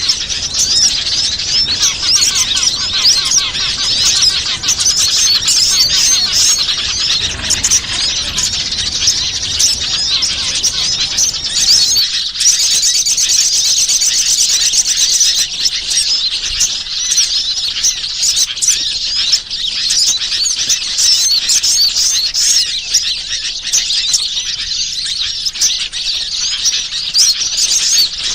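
Dense chorus of many small wild songbirds chirping and twittering rapidly, a bird-lure (pikat) recording played to attract wild birds. The low background hum drops away abruptly about twelve seconds in while the chirping goes on.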